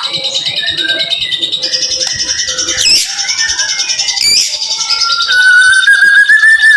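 White-rumped shama (murai batu) singing a dense, rapid-fire song of high twitters and whistles, with two sharp sweeping notes in the middle. From about five seconds in comes a long, steady whistle that slowly rises and is the loudest part.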